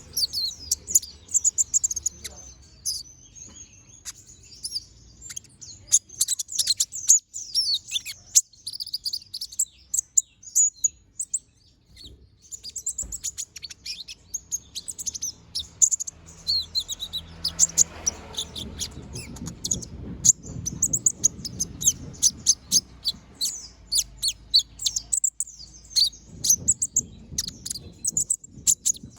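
A konin sunbird singing busily: a rapid stream of high, thin chirps and twittering trills, broken only by brief pauses about 8 and 12 seconds in.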